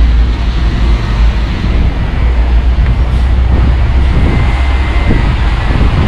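DAF truck's diesel engine running at idle, a steady loud low rumble.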